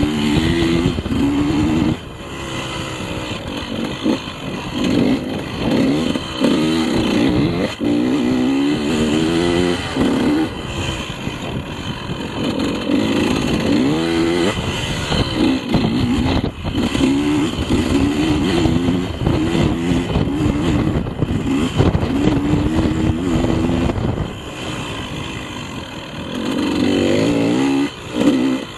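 A KTM 150 two-stroke enduro motorcycle engine being ridden hard, its pitch rising and falling again and again as the throttle is opened and shut. There are brief drops in level where the throttle is closed, about two seconds in and again near the end.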